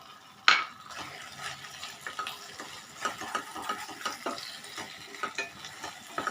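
A spatula stirring and scraping chicken sausage pieces in a thickening sauce in a frying pan, with a sharp knock against the pan about half a second in and then many small irregular scrapes and taps.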